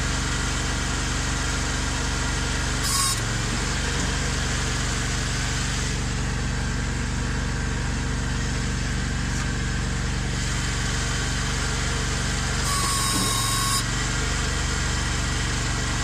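Ventrac compact tractor's Kawasaki engine idling steadily. Two brief higher-pitched sounds break in over it, a short one about three seconds in and a longer one of about a second near the end.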